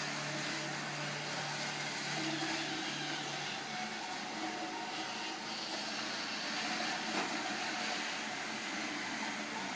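Roomba robot vacuum running: a steady motor and brush whir, with a low hum in it dropping out about a third of the way through.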